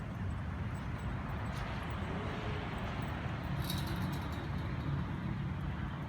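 Steady rumble of downtown road traffic, with a brief faint clink a little past the middle.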